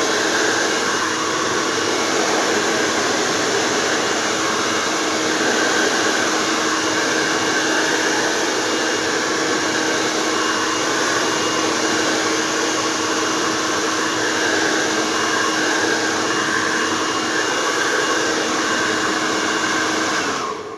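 A new Sonashi handheld hair dryer running steadily, a loud even rush of blown air over a faint motor hum, then switched off just before the end.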